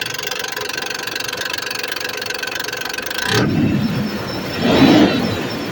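Mitsubishi 6G74 3.5 L V6 running with a fast, steady ticking clatter, the knock of its hydraulic timing-belt tensioner. About three and a half seconds in, the ticking cuts off abruptly and a lower rumble follows, with a louder swell near the end.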